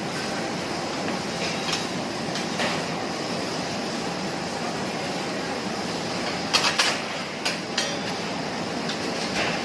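Food sizzling steadily on a teppanyaki griddle, with metal spatulas clanking sharply against the hot plate a few times, in a quick cluster about two-thirds of the way through and again near the end.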